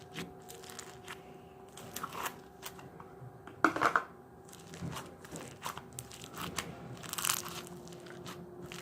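Slime being squished and stretched by hand, giving irregular crackling clicks and pops, loudest about four seconds in. A faint steady hum runs underneath.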